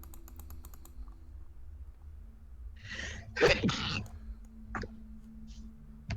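A person sneezes once, loudly, about three seconds in, after a few light keyboard clicks.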